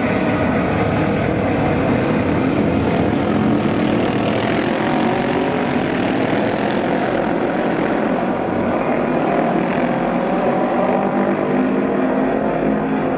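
Several Japanese auto race motorcycles, 600cc twin-cylinder racing machines, running at speed around the oval track, their engines sounding together in a loud, steady mix.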